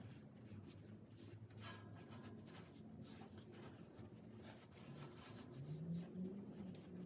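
Faint rubbing and light handling noises, with scattered small clicks over a low steady hum.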